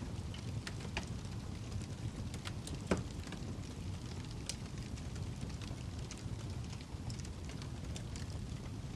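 Burning wood log in a fireplace crackling: irregular sharp pops and snaps over a steady low rumble of the flames, with one louder pop about three seconds in.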